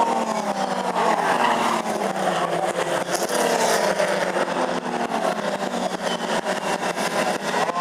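Several racing Ford Falcon and Holden Commodore saloon cars running at speed, their engines rising and falling in pitch as they accelerate, shift and pass one another.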